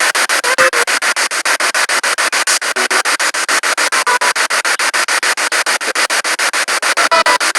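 Spirit box radio sweeping rapidly through stations: static chopped into short bursts about ten times a second, with brief snatches of tone from passing broadcasts.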